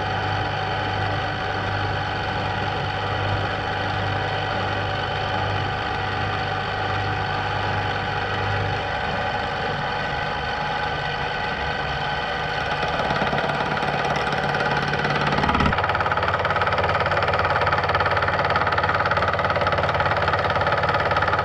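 Machine-tool spindle running steadily, driving a home-ground high-speed-steel fly cutter into a workpiece clamped in a vise. About sixteen seconds in, the sound changes: the low hum drops away and a higher, louder sound takes over.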